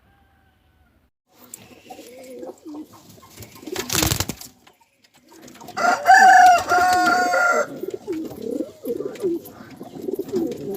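Domestic pigeons cooing in low, warbling calls. A brief sharp noise comes about four seconds in, and a louder, higher, steady call lasting under two seconds comes about six seconds in.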